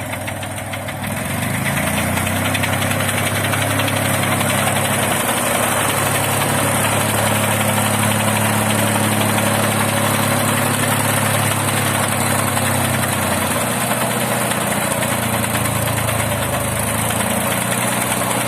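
Mini tractor engine running with a homemade cutter driven through its cardan (PTO) shaft, getting louder about a second in as it comes up to speed. The knocking in it comes from the cardan shaft, which the owner puts down to the shaft sitting too high, at too steep an angle.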